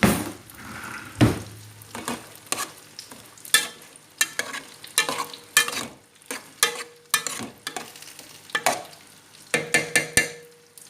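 A utensil clinking and scraping irregularly against a dish as heated food is stirred and served.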